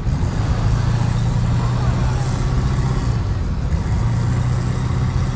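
A motor vehicle's engine running with a steady low drone, which weakens for a moment a little past halfway.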